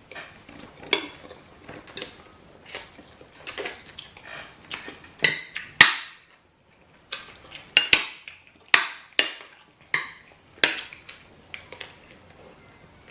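Cutlery clinking and scraping against a plate while someone eats, in short irregular strokes, loudest around the middle, with a brief pause a little after halfway.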